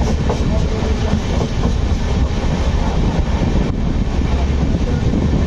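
Indian Railways passenger train running at speed, heard from an open coach window: a steady rumble of wheels on the rails.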